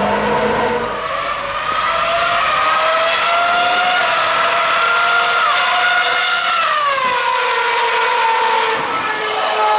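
Formula One cars' 2.4-litre V8 engines running at high revs; one engine's high-pitched note climbs, shifts gear once, then drops away about seven seconds in as the car goes by.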